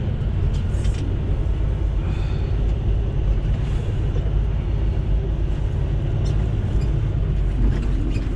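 Semi truck's diesel engine running with a steady low rumble while the rig maneuvers a trailer into a parking spot.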